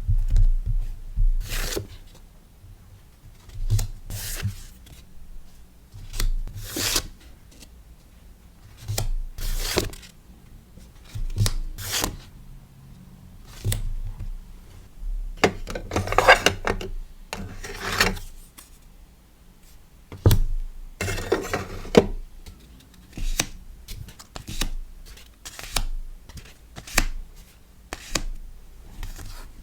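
Hands packing a sticker order: a string of short rubbing, crinkling strokes of paper and plastic packaging every second or two, with a few longer rustles past the middle.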